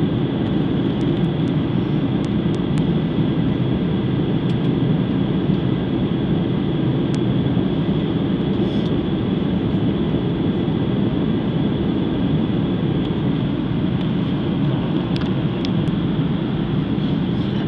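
Steady airliner cabin noise heard from inside the passenger cabin on approach to landing: jet engines and rushing air as an even, unbroken din with a faint high whine.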